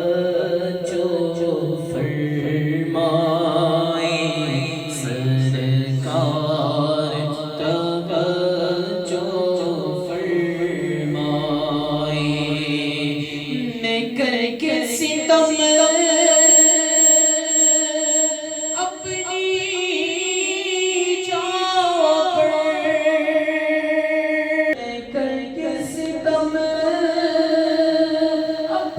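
Urdu devotional naat sung in long, ornamented melodic lines.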